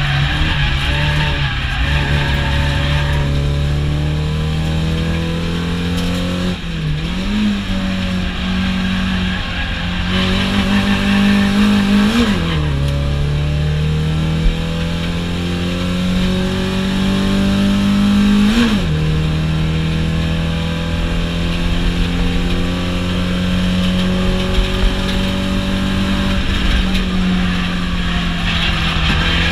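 Car engine heard from inside the cabin, pulling hard on a track lap. Its note climbs steadily and drops sharply twice, about 12 and 19 seconds in, as the car changes up a gear.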